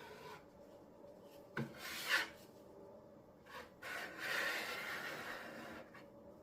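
Putty knife scraping and spreading wet Henry Feather Finish cement over a laminate table top. There are a couple of short strokes about one and a half to two seconds in, with the loudest at about two seconds, then a longer scrape from about four to six seconds.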